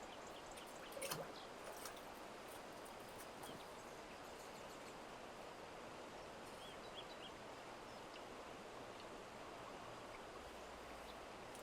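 Faint steady outdoor background hiss, with a few light clicks about a second in and a few soft high chirps from small birds later on.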